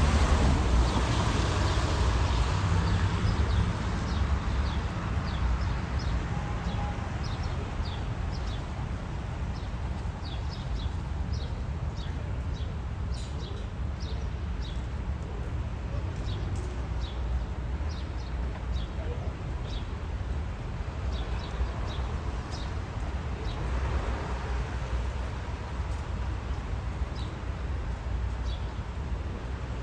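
Commuter train on the Montclair-Boonton line running past, a steady low rumble that is loudest in the first few seconds and then eases. Short, high chirps sound on and off through most of it.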